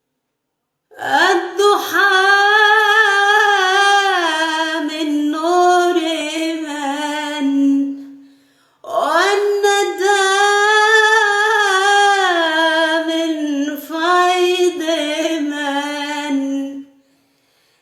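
A male religious chanter (munshid) singing unaccompanied, drawing out two long, richly ornamented melismatic phrases without words; the second phrase begins about nine seconds in.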